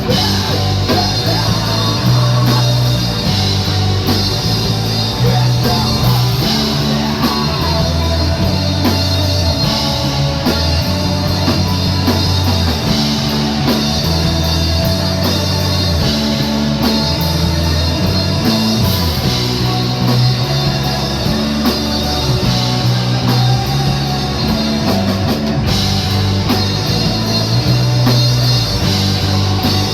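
A rock band playing live: drum kit, electric guitar and bass, with the bass notes moving every second or so under a continuous dense wall of sound.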